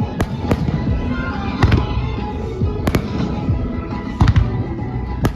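Fireworks shells bursting, about six sharp bangs at irregular intervals, over loud music from the show's sound system.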